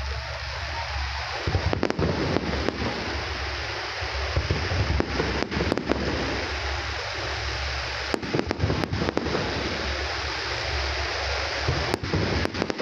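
Aerial fireworks display: scattered sharp bangs and crackles, a few in quick clusters, over a steady rushing noise.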